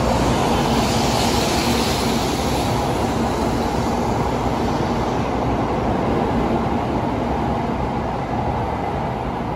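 Tokaido Shinkansen train moving along the station platform: a steady rush of running noise with a low hum that dies away about halfway through, the whole sound slowly getting quieter.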